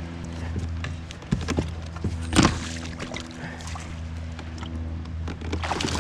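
Knocks and water noise on a fishing kayak while a bass is fought alongside, with a sharp thump a little over a second in and the loudest one about two and a half seconds in, over a steady low hum.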